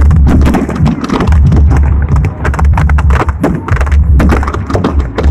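Fireworks barrage: a dense run of rapid bangs and crackles over a heavy, continuous low booming, very loud throughout.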